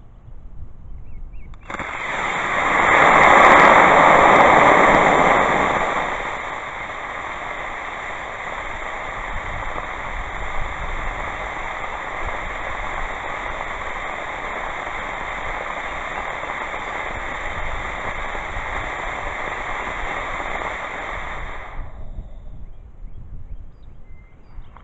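Homemade potassium nitrate and powdered sugar rocket motor igniting about two seconds in and burning with a rushing hiss. The hiss is loudest for the first few seconds, then settles to a steady hiss with a high whistle over it, and cuts off suddenly near the end. This is the motor producing thrust during a static test fire.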